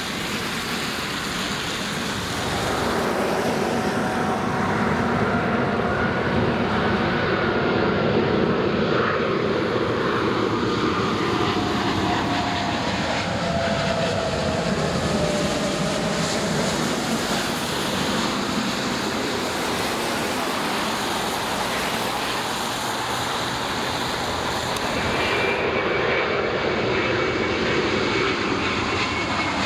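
Jet airliner engines roaring as a plane passes, with an engine whine that falls in pitch through the middle. A fresh high whine from another jet comes in near the end.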